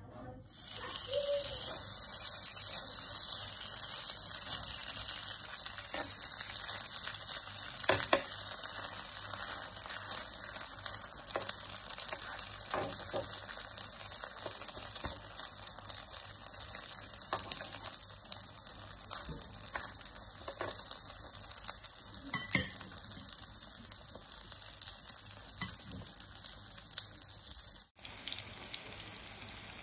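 Shredded potato and chicken patties sizzling in hot oil in a nonstick frying pan, the hiss starting about half a second in. Occasional sharp clicks come from a metal spoon knocking against the pan and the metal egg rings.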